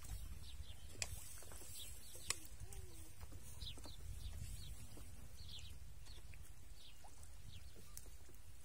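Small birds chirping in short, quick falling notes over a faint, steady low rumble, with two sharp clicks about one and two and a half seconds in.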